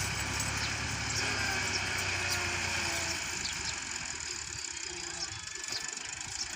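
Tractor engine running steadily with slight changes in pitch, easing off about three seconds in.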